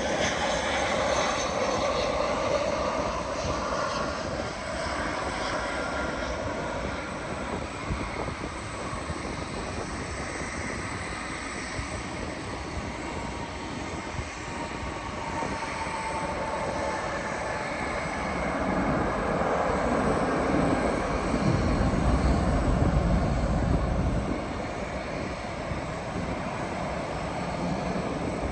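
Jet airliner coming in to land: a steady rush of engine noise with faint whining tones, swelling to a loud low rumble about three-quarters of the way through as it passes closest, then easing off.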